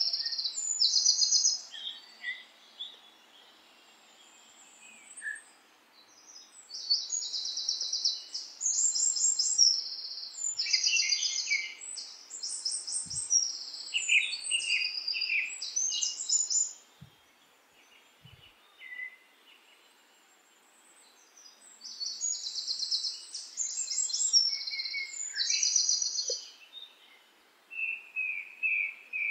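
Songbirds singing in several bursts of quick, high, repeated notes, with pauses of a few seconds between the phrases, over a faint steady background hiss.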